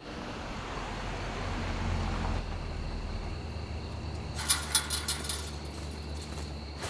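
A car's engine running with a steady low hum as the car approaches, with a short cluster of sharp clicks a little after halfway.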